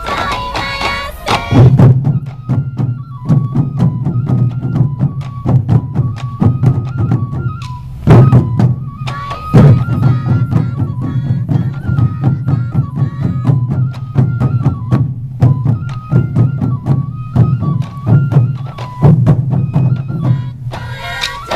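Sansa odori festival music: a troupe of taiko drums beats a fast, steady rhythm, and a bamboo flute plays a repeating stepwise melody over it. A brighter passage, likely the group's shouted call, comes near the start and again near the end.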